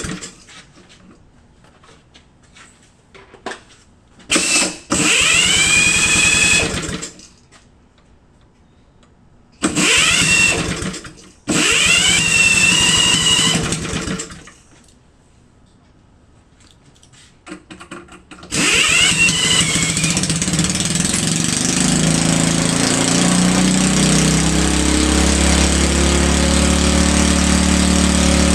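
A see-through engine fuelled with gunpowder being cranked in three short bursts, each rising in pitch as it spins up, with quiet gaps between. About two-thirds of the way through it is cranked again and keeps turning over, settling into a steady, loud, low drone.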